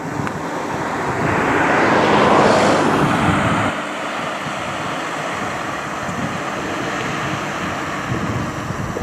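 A vehicle passing close by, its tyre hiss swelling to a peak about two seconds in and fading away, over wind buffeting the microphone.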